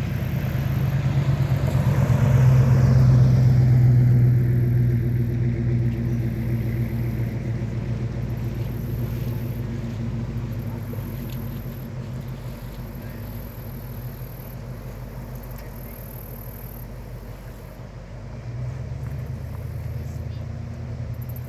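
A car's engine running with a steady low drone and road noise. It swells to its loudest a few seconds in, eases off, and picks up again near the end.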